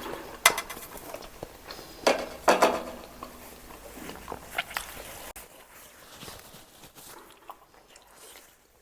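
Plates and utensils being handled close to the microphone: a run of sharp clicks and knocks, loudest in the first three seconds, then quieter handling.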